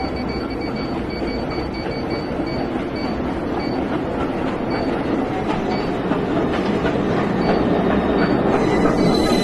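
Subway train running on the rails, heard from inside the car: a steady rumble with clicks from the wheels and faint, repeated short high-pitched squeaks, growing louder near the end.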